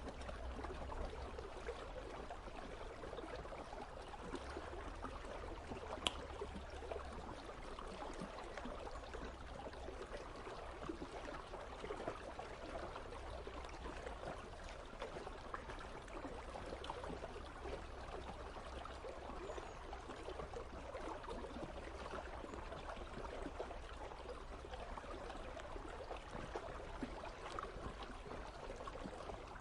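Icy river running steadily, with water trickling and gurgling, over a low rumble. One sharp click about six seconds in.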